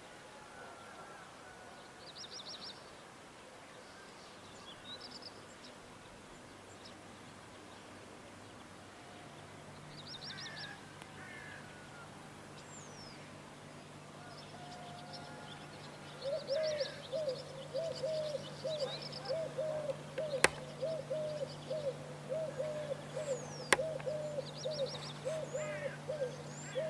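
Birds calling: scattered high chirps and twitters, and from a little past halfway a low hooting call repeated about twice a second. A faint steady hum joins about a third of the way in, and there are two sharp clicks near the end.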